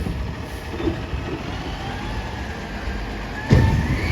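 Garbage truck engine running with a faint hydraulic whine that slowly rises in pitch, and a single loud thump about three and a half seconds in.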